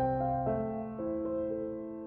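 Soft background music on a piano-type keyboard: a few new notes struck in the first second, then held and slowly fading.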